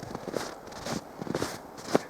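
Footsteps crunching in packed snow at a steady walking pace, about two steps a second, the last one louder.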